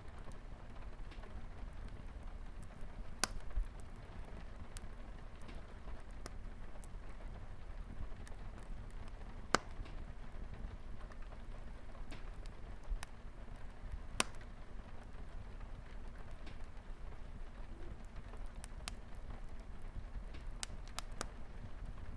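Light rain pattering steadily on a window, with a wood fire crackling: scattered sharp pops over the rain's hiss, the loudest about nine and a half seconds in.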